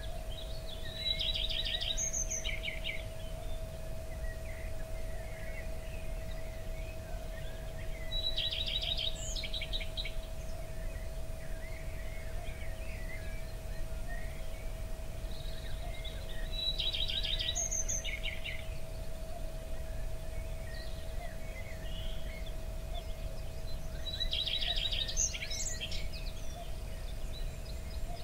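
A songbird singing the same short chirping phrase four times, about every eight seconds, over a steady hum and a low rumble.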